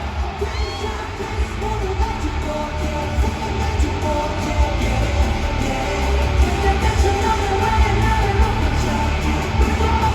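Live K-pop concert music heard in the arena: a song with singing over a heavy bass beat, with yelling from the crowd.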